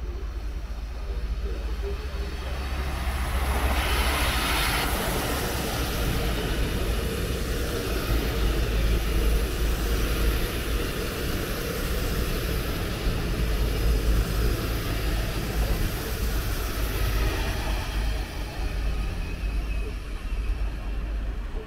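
Train running along the station tracks: a continuous rumble with steady wheel-on-rail noise, and a brief louder rush about four seconds in.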